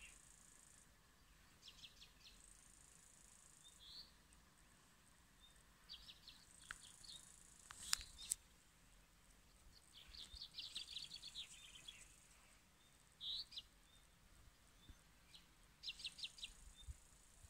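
A songbird singing the same short phrase again and again, every few seconds: a quick run of notes ending in a high buzzy trill. Two sharp clicks sound about eight seconds in.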